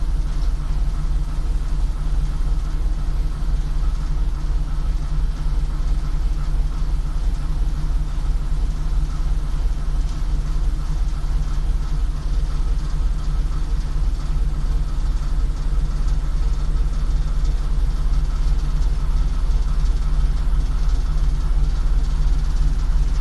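ChME3 diesel shunting locomotive's six-cylinder diesel engine running at a steady, even speed with a constant low hum.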